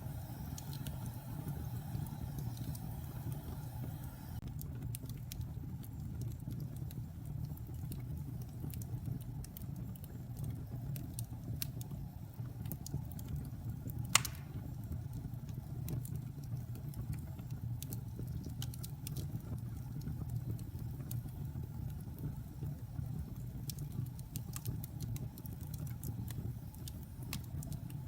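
Fire burning in a fireplace: a steady low rumble with scattered crackles, and one loud pop about 14 seconds in.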